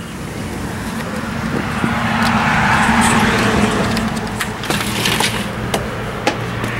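A road vehicle going past, its noise swelling to a peak about halfway through and then easing off, with a few sharp clicks.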